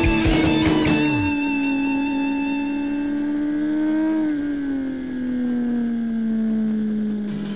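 Rock music with drums cuts out about a second in, leaving a Suzuki GSX-R750's inline-four engine heard from on board the bike. It holds a high, steady note that slowly falls in pitch, with a brief rise and drop about four seconds in.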